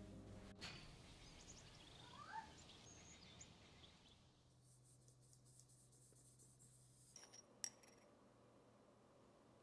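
Near silence with a few faint bird chirps in the first few seconds, and a single light click near the end.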